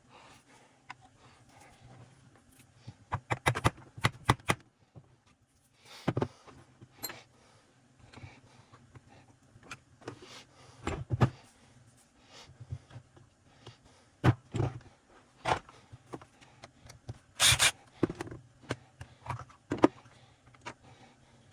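Scattered clinks, knocks and rattles of tools and parts being handled, with a quick run of clicks about three to four seconds in and a short louder scrape near the end.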